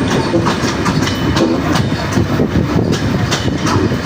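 A train running along the track: a steady loud rumble with the wheels clacking over rail joints about twice a second.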